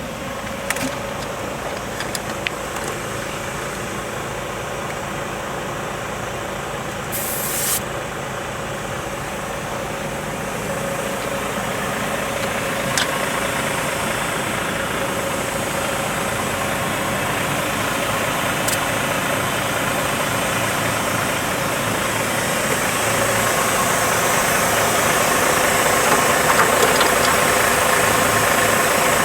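Iveco/Astra 8x8 truck's diesel engine idling steadily under an even hiss that grows slowly louder, with a few brief clicks.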